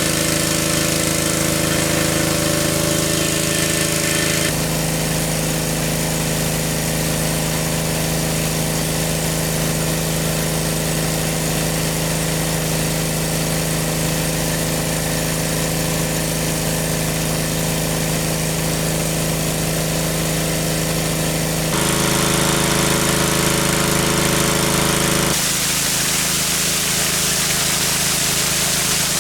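An engine running steadily, with sudden shifts in pitch and tone about four seconds in and again about 22 and 25 seconds in.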